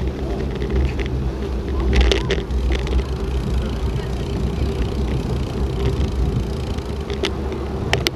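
Steady low running rumble of a moving vehicle heard from on board, with a few short clicks about two seconds in and again near the end.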